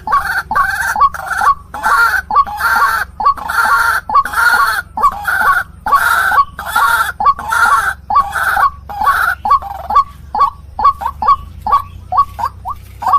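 White-breasted waterhen (ruak-ruak) calling: a loud run of harsh, croaking notes, about two a second. After about ten seconds these change to quicker, thinner single notes.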